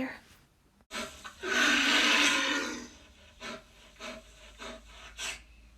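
Pages of a cardboard board book being handled and turned: a click, then a loud sliding rub of card lasting about a second, followed by a few lighter rustles.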